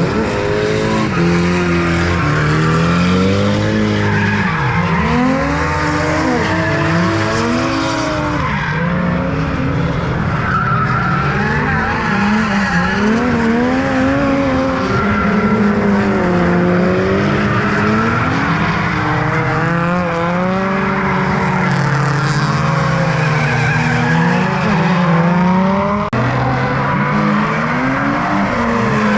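Several drift cars running close together, their engines revving up and down over one another, with tyres squealing and skidding.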